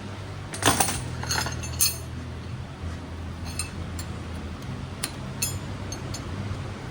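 Metal tools and small metal parts clinking as they are handled: a quick cluster of clinks and taps about a second in, then a few scattered single ticks. A low steady hum runs underneath.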